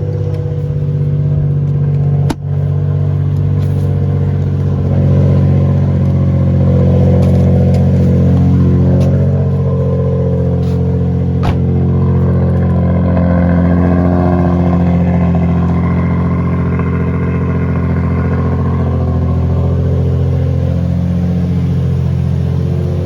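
Nissan 350Z's 3.5-litre V6 engine running steadily, with a single sharp knock about two seconds in.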